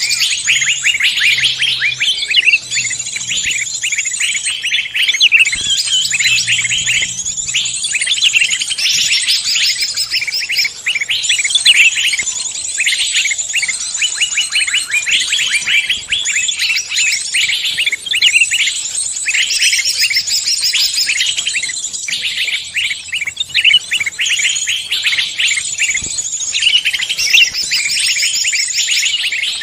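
Forest songbirds chirping and trilling in a dense, continuous chorus, several rapid calls overlapping without a break.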